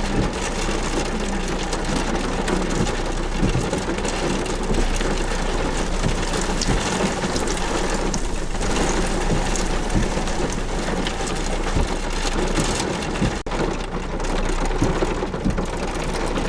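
Steady rushing noise of storm wind and rain, with a momentary break about thirteen seconds in.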